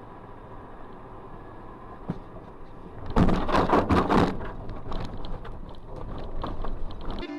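Steady vehicle and road noise, then about three seconds in a sudden loud crash of impact and crunching lasting about a second, followed by scattered knocks as it dies away.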